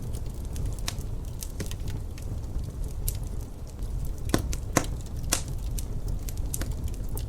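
Wood fire in a fireplace crackling, with irregular sharp pops, a few louder ones a little past the middle. Under it a steady low rumble of wind.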